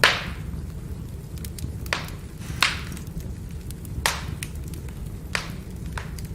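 Firewood burning and crackling: sharp pops, the loudest right at the start and five more spaced about a second apart, with many faint ticks over a steady low rumble.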